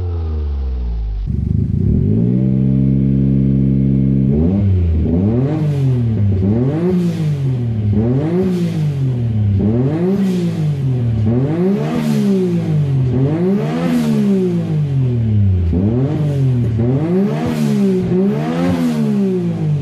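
Three-cylinder car engine revving. The revs drop at first, jump up and are held for a few seconds, then swing up and down about nine times in a steady rhythm, one rev every second and a half or so.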